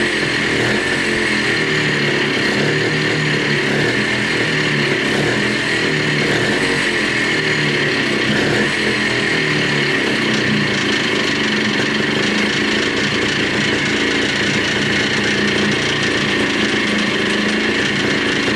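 Montesa Cota 247's single-cylinder two-stroke engine running steadily, its pitch wavering a little, after being brought back to life following 42 years laid up.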